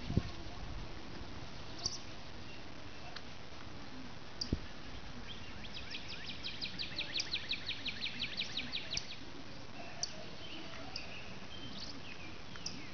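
Birds calling outdoors over a steady background hiss: scattered short, high chirps, and about six seconds in a rapid trill of evenly repeated notes, roughly seven a second, lasting about three seconds. A brief thump comes partway through.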